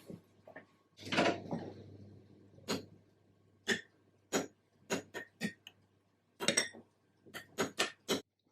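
Kitchen things being handled: a brief scraping rustle about a second in, then a dozen or so sharp, irregular knocks and clinks of dishes and utensils being set down and moved.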